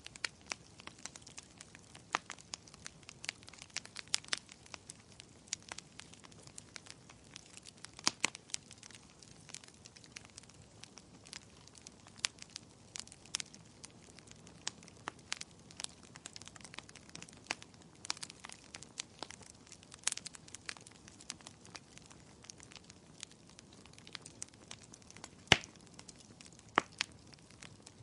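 Wood fire crackling, with irregular sharp pops, over a steady soft hiss of rain. One pop, about 25 seconds in, is louder than the rest.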